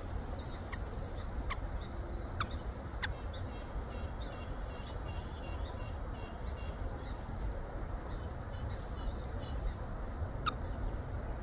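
Small songbirds at a feeder giving scattered short, high, thin call notes and chirps over a steady low background rumble.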